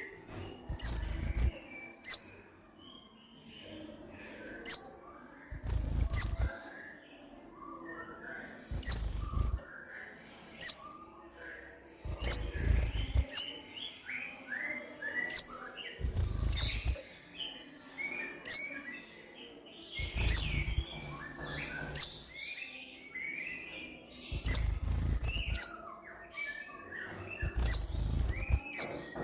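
Kolibri ninja sunbird singing: a sharp, high chirp repeated every second or two, with softer twittering notes in between and occasional low thuds.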